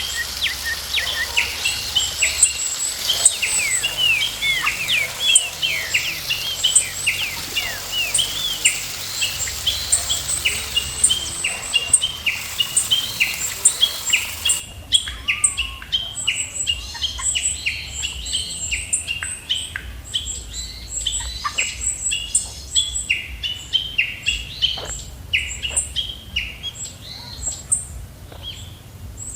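Many wild birds chirping and calling at once, a dense chorus of short chirps and quick down-sweeping notes. A high steady hiss sits under the first half and cuts off sharply about halfway through.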